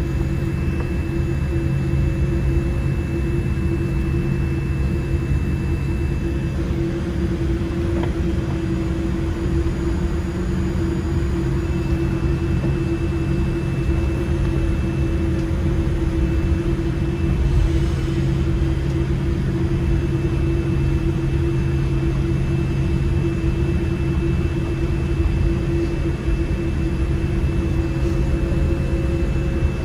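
Cabin noise of a Boeing 787-8 on the ground before takeoff: a steady low rumble of the engines at idle and the cabin air, with a constant hum and a faint high whine that drops out for a few seconds before the middle.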